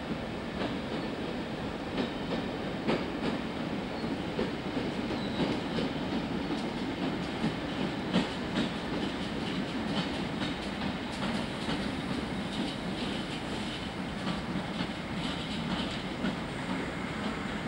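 InterCity train coaches rolling past along a station platform, with a steady rumble and irregular clicks of wheels over rail joints, the sharpest about eight seconds in.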